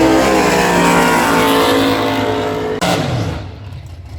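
Drag-racing Camaro's V8 running hard at high revs, a steady stack of engine tones. A sharp crack comes near three seconds in, and then the engine sound quickly drops away. A spectator says this Camaro doesn't sound good.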